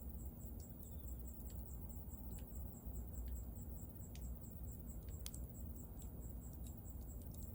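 A cricket chirping steadily, about five chirps a second, over a bonfire crackling with scattered sharp pops, the loudest about five seconds in, and a low steady rumble of the fire.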